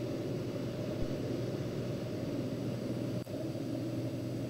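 Turbocharged Cessna 206's six-cylinder engine and propeller droning steadily in the cabin during the climb-out, a constant low hum with a light hiss over it. A brief click comes a little past three seconds in.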